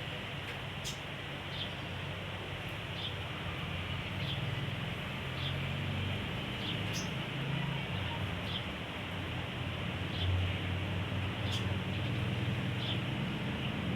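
A sogon, a small songbird, giving short high chirps about once a second over a steady low hum and hiss.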